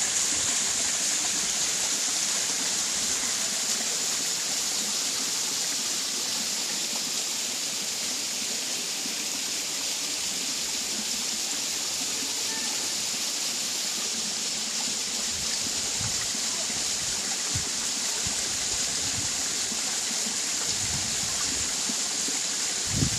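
Waterfall rushing steadily, a constant hiss of falling and running water.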